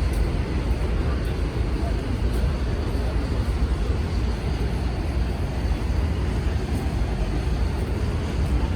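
Subway train running, a steady low rumble with an even rushing noise and no change throughout.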